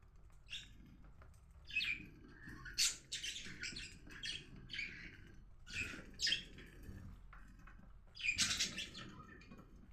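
Budgerigars chirping: a string of short, scratchy calls, one every second or so, with a louder cluster near the end.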